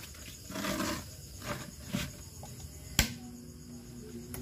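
A few brief handling knocks, then a sharp click about three seconds in as the power is switched on. Right after it the incubator's blower motor starts, a steady hum that begins to rise in pitch near the end as it spins up.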